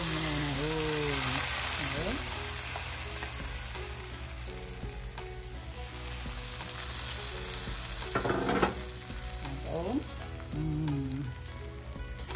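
Food frying in hot oil in a pan, a steady sizzle that is strongest for the first few seconds, then eases. A short clatter about eight seconds in.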